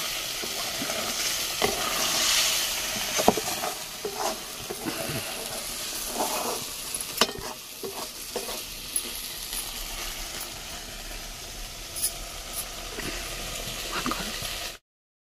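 Ground-spice masala paste sizzling as it fries in a metal kadai over a wood fire, with a flat metal spatula scraping and stirring it in irregular strokes. The sound cuts out briefly just before the end.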